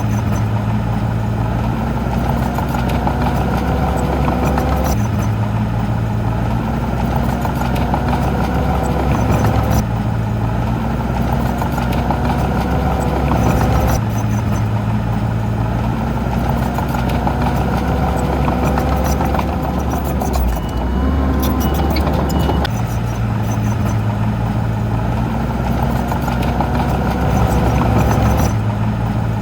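Heavy diesel engine of earthmoving equipment running steadily, its pitch and load shifting abruptly every few seconds.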